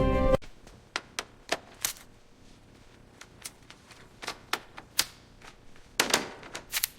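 A series of sharp, irregularly spaced mechanical clicks and taps, with a brief scraping sound about six seconds in. Background music cuts off just after the start.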